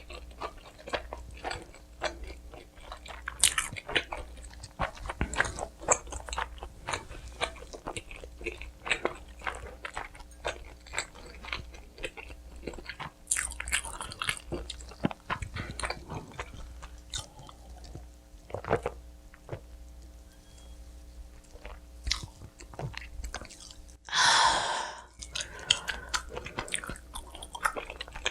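Close-up chewing and biting of pizza: a dense, irregular run of wet mouth clicks and light crust crunches. Near the end comes one brief, louder rush of noise.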